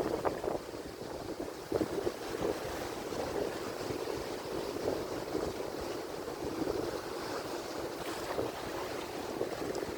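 Atlantic Ocean surf: waves breaking and washing in a steady, rough rush, with wind on the microphone.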